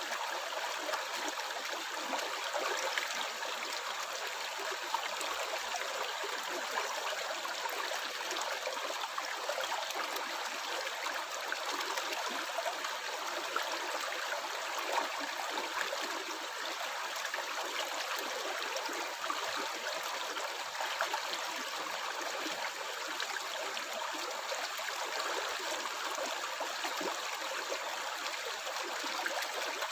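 Running water of a small stream gurgling and splashing steadily, with many small bubbling pops.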